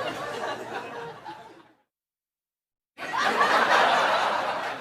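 Laughter sound effect fading out, a second of dead silence, then a louder burst of a group of people laughing.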